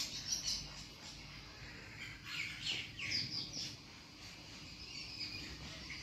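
Birds chirping in short clusters of quick, high calls: one right at the start, a busier run from about two to nearly four seconds in, and a few more near the end.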